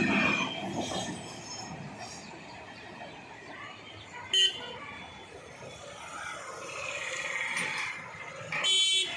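Rumble of a passing local train fading away, then two vehicle-horn toots at the level crossing: a short one about four seconds in and a longer one near the end.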